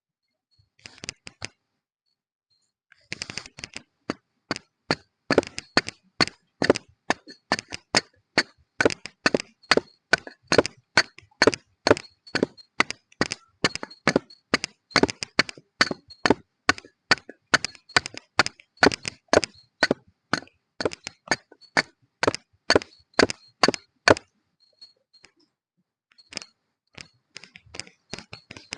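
A long, regular series of sharp clicks or knocks, about three a second, starting a few seconds in and stopping a few seconds before the end.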